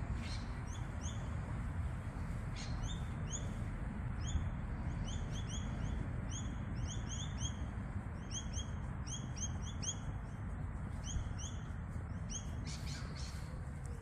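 A small bird calling: a long string of short, high chirps, each sliding downward, repeated in quick runs, over a steady low background rumble.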